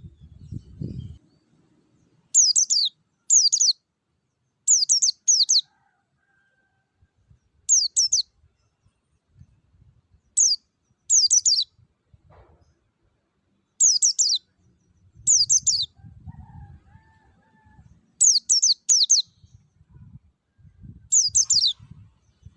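A pleci (white-eye) singing its wild-type song: short, clear, high phrases of quick falling notes, often in pairs, repeated with pauses of a second or two between them.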